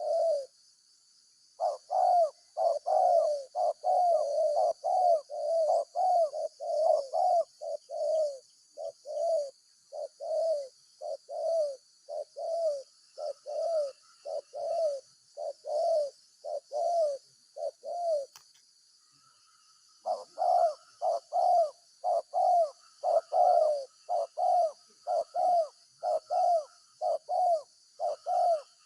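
Spotted dove (tekukur) cooing in a long, fast series of short notes, about two a second, with a break of about two seconds partway through. A steady high hiss runs underneath.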